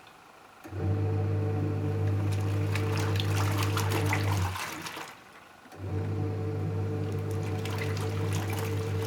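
Panasonic NA-W77FCW1 twin-tub washing machine's wash-tub motor humming as it churns water and laundry, running about four seconds, pausing for about a second, then running again. The run-pause-run pattern is the wash agitator reversing direction.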